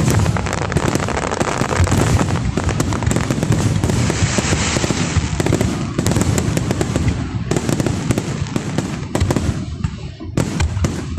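Fireworks show barrage: a dense, continuous run of booming shell bursts and crackle, thinning to more separate bangs near the end.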